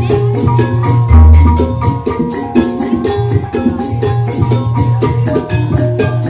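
Banyumasan gamelan music accompanying an ebeg trance dance: metallophones play a fast, steady run of notes over drums. A deep low stroke sounds about a second in.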